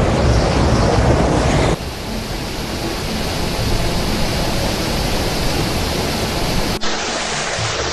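Loud, steady rush of floodwater, changing abruptly about two seconds in and again near the end as the footage cuts from one stretch of water to another.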